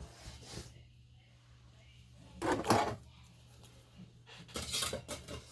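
Craft materials being handled on a work table: two brief rustling, knocking handling noises, one about two and a half seconds in and another near the end, over a low steady hum.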